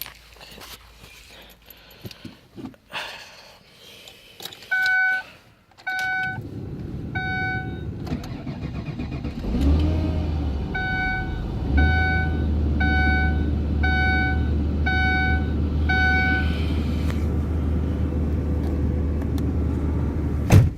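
Small clicks and handling, then a chime beeping three times. About nine and a half seconds in, a 2005 Ford Taurus's 3.0-litre V6 cranks and catches on a cold start in sub-zero weather, settling into a steady idle while the chime beeps six more times.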